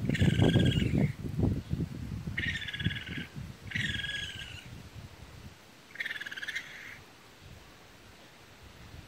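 A short, fast trilling call repeats four times, each lasting under a second, in the first seven seconds. Loud low rumbling and thumps run through the first few seconds.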